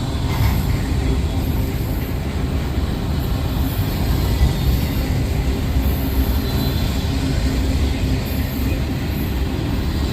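Freight train rolling past, a steady rumble of steel wheels on rail.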